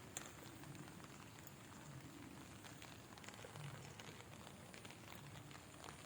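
Faint rain falling, a soft steady patter with scattered small drop ticks.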